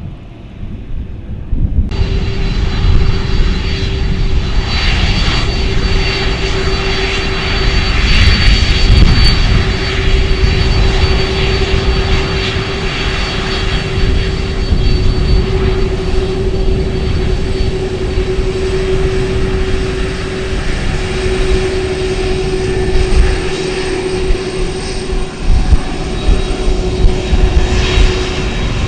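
Airplane engines running loud and steady, with a held drone and a high whine over it; the sound cuts in abruptly about two seconds in.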